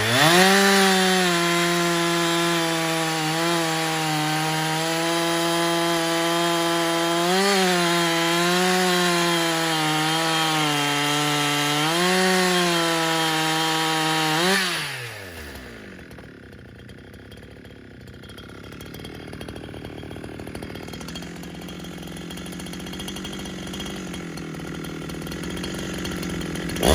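A Husqvarna 372XP-pattern kit chainsaw's two-stroke engine, on its stock muffler, goes to full throttle and holds a high, near-steady pitch through a cut in wood, dipping slightly under load a few times. About halfway through the throttle is released and the engine note falls away quickly.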